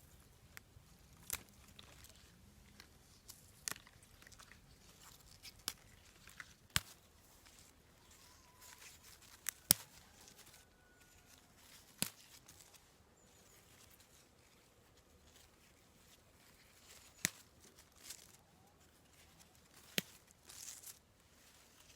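Cooking preparation by hand: irregular sharp clicks and knocks, roughly one every second or two, the sharpest about ten seconds in.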